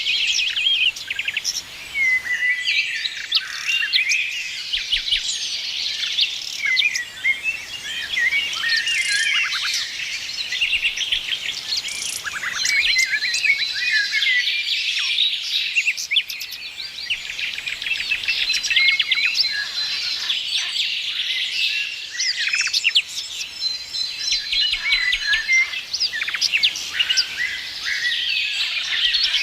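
A chorus of many small songbirds chirping, trilling and whistling at once, with calls overlapping continuously and a few held high notes.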